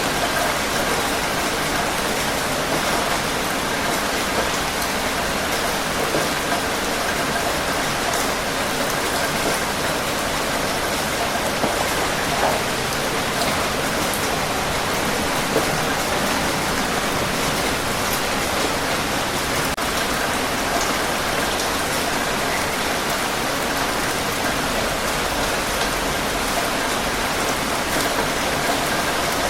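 Steady rain falling on a surface, an even wash of noise with scattered individual drops ticking through it.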